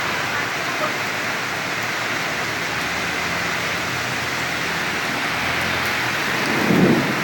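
Heavy rain falling steadily, a dense, even hiss. Just before the end, a brief low thump stands out above the rain.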